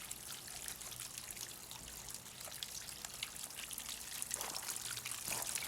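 Water trickling and splashing steadily as a pump lifts it through a concrete bird bath converted into a fountain and it spills back into the basin.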